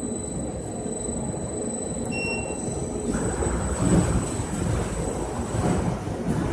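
Industrial washing machine running, its drum turning with a steady low rumble that grows fuller and noisier about three seconds in. A brief high tone sounds about two seconds in.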